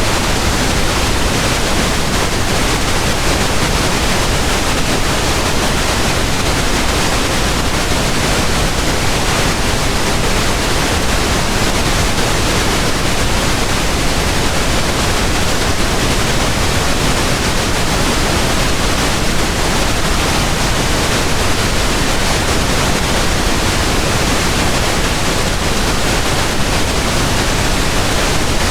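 Pink noise: a steady, even hiss spread across all pitches, heavier toward the low end, unchanging throughout.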